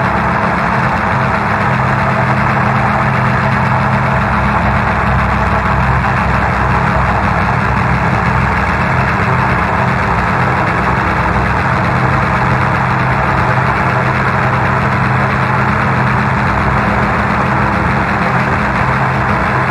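Tractor engine running at a steady speed, with an even, unchanging note.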